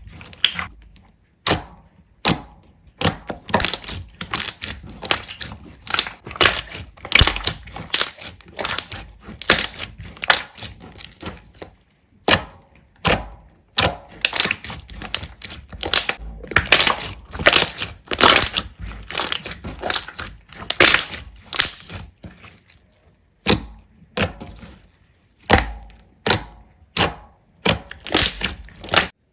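Slime being pressed and poked by hand, making a run of short crackling, squishing pops, about one or two a second.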